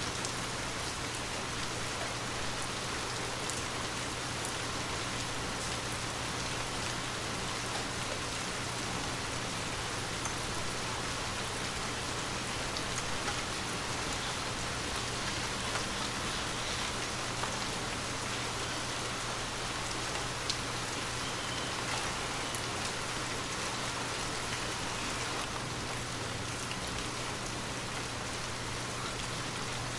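Steady, light rain pattering on a window, with scattered individual drops ticking.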